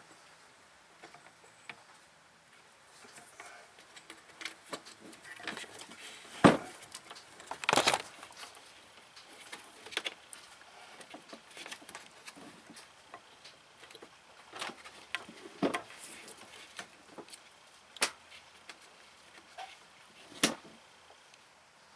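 Scattered sharp clicks and knocks of hand tools at work, with a short scrape. The loudest come about six and eight seconds in, and a few more follow near the end.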